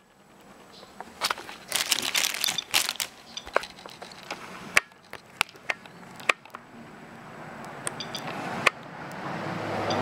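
Soeks radiation dosimeter clicking as it counts: a quick flurry of sharp clicks in the first few seconds, then single clicks a second or more apart. A passing car's road noise rises near the end.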